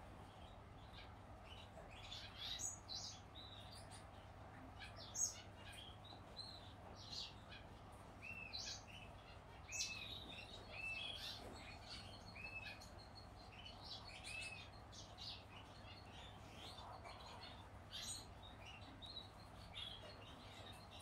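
Faint chirping and cheeping of small birds, many short high notes with a run of repeated arching calls in the middle, over a steady low hum. A single sharp click about five seconds in.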